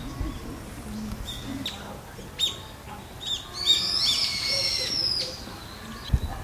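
Birds calling in short, sharp chirps, then a denser run of overlapping calls lasting about a second and a half, starting about three and a half seconds in. A short low thump comes near the end.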